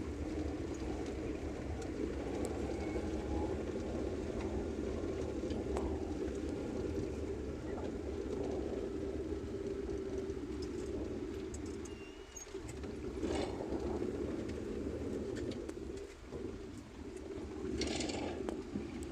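Car travelling on a rain-soaked road, heard from inside: a steady low rumble of engine and tyres on wet tarmac, with a brief hiss of splashing water twice, about 13 seconds in and near the end.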